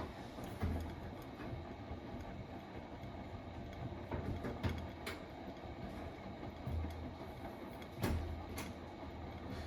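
Hotpoint WMFUG942 washing machine running an Autoclean cycle: the drum turns with its motor running steadily, with a few low thumps and light clicks as it tumbles.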